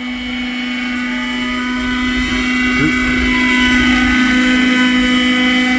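Nitro (glow-fuel) engine and rotors of a 1980s German-built radio-controlled helicopter, running at a steady high pitch as it lifts off and climbs, growing louder over the first few seconds.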